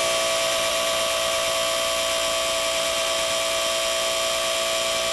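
Small electric motor of the O gauge layout running with a steady whine and hiss, switched on just before and cut off abruptly near the end.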